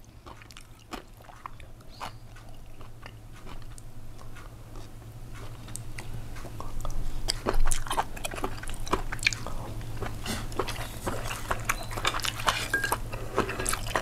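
Close-miked chewing and biting of food, with many small crackly mouth clicks that grow denser and louder from about six seconds in. A steady low hum runs underneath.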